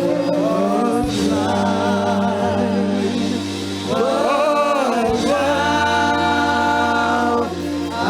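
Slow gospel worship singing: voices holding long, wavering notes over steady sustained chords, with short breaks between phrases.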